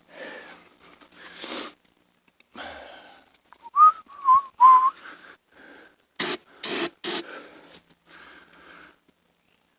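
Three short whistled notes wavering in pitch, followed a second or so later by three sharp clicks in quick succession.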